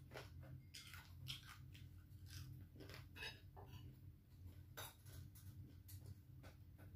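Faint eating sounds: crunching and chewing of fried dried anchovies with rice, with light clicks of a spoon against a glass serving bowl, over a steady low hum.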